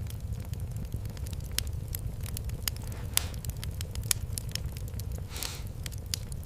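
Wood fire crackling, with scattered sharp pops over a steady low rumble and a brief hiss about five seconds in.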